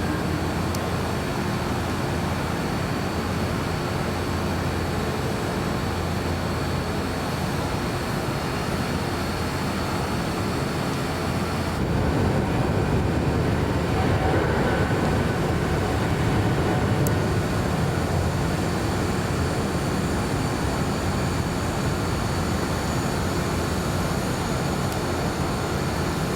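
Jet airliner engines making a steady rushing noise that swells a little about halfway through.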